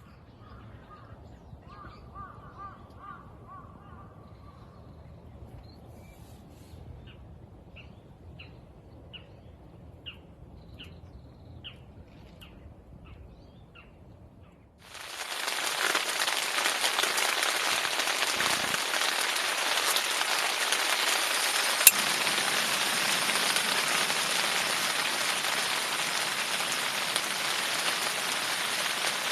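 Birds calling in quiet open air, first one drawn-out call and then a run of short calls about two a second; about halfway, heavy rain starts abruptly and pours down steadily.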